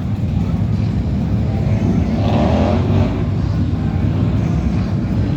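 Motorcycle engines rumbling steadily, with a brief higher rising sound over them about two seconds in.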